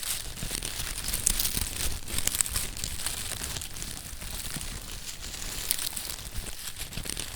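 Crackling of a burning bonfire: a dense, steady run of small sharp snaps and pops.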